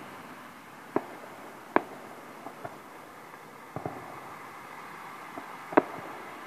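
Distant aerial firework shells bursting: a series of sharp bangs, some in quick pairs, the loudest near the end, over a steady background hiss.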